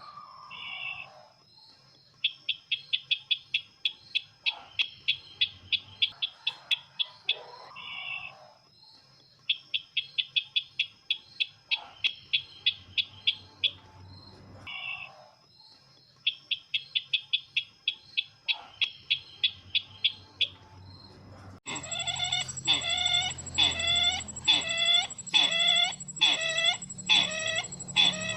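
Bird-luring recording of the sisintar's call. Rapid ticking rattles, each about two seconds long, are repeated with short pauses over a thin steady high tone. About three quarters of the way in it switches abruptly to a louder, pitched call repeated about one and a half times a second.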